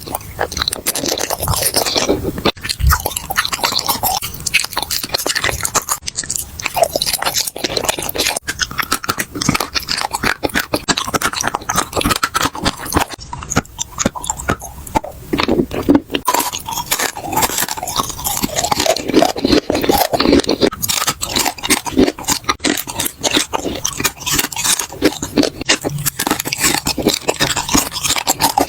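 A person chewing and biting food close to the microphone, a dense run of quick, crisp clicks and smacks that never lets up.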